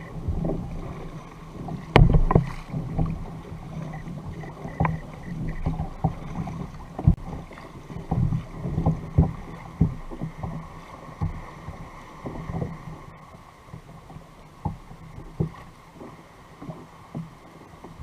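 Fishing kayak on the sea: irregular knocks and thuds against the hull and gear with water sounds, the loudest knock about two seconds in.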